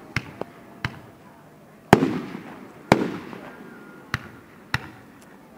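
Aerial fireworks shells bursting: a run of about seven sharp bangs, the two loudest about two and three seconds in, each followed by a rumbling echo that fades away.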